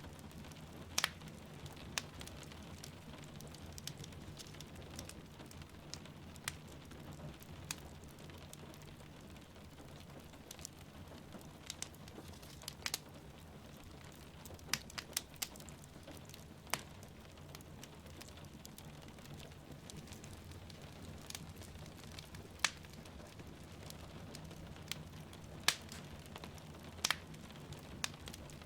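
Wood fire crackling in a fireplace, with sharp irregular pops every second or two, over a steady background of falling rain.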